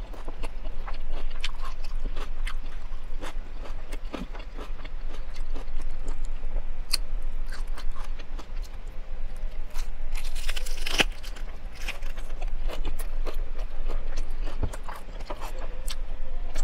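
A person chewing a teriyaki chicken lettuce wrap close to a clip-on microphone: crisp lettuce crunching and wet mouth clicks. A louder burst of crunching comes about ten seconds in.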